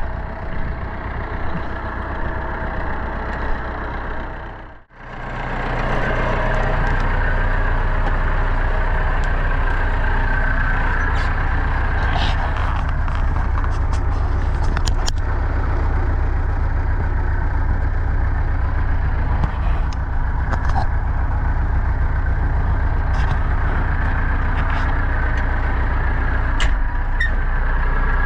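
Pronar 1025A tractor's diesel engine running steadily with a deep rumble. The sound drops out almost completely about five seconds in, then returns louder and stays steady.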